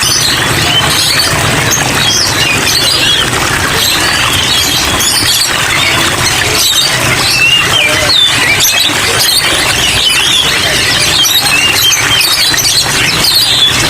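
Many small cage songbirds chirping and singing at once in a dense, continuous chorus, with a steady low hum underneath.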